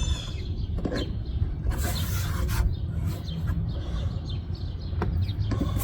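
Scraping strokes, a few at irregular intervals, of a putty knife working old window adhesive off a car body, over a steady low hum.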